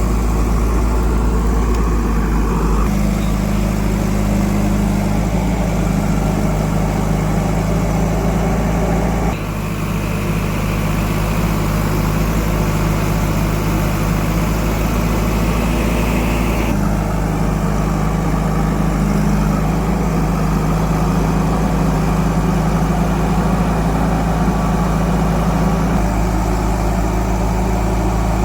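Heavy diesel engines of earthmoving machinery and tractors running steadily, with a deep rumble. The engine sound changes abruptly three or four times, as if separate recordings were cut together.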